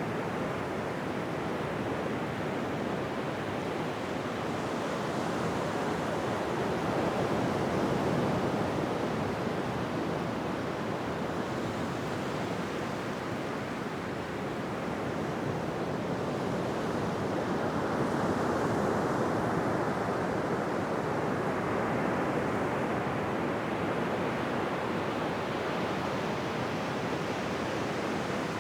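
Ocean surf washing onto a beach: a continuous rush of breaking waves that swells and ebbs slowly, with two broad swells about ten seconds apart.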